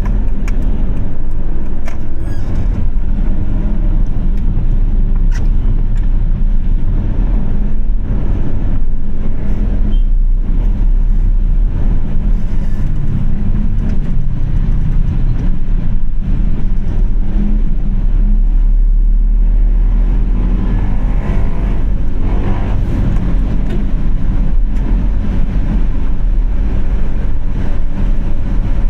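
Steady low rumble of a car driving through city traffic: engine and road noise.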